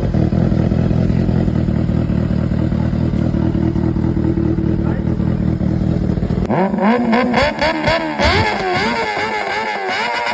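Kawasaki inline-four sportbike engine idling steadily just after starting, then revved in quick repeated throttle blips from about six and a half seconds in, the pitch rising and falling each time.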